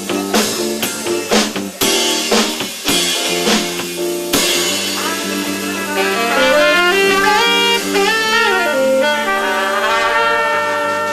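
Live band playing jazz: drum hits in a steady rhythm for the first few seconds, then a horn melody winding up and down in quick runs over held low notes.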